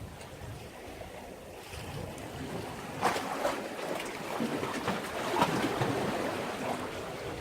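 Sea waves washing and splashing at a breakwater, a louder surge building about three seconds in, with a second splash peak midway through.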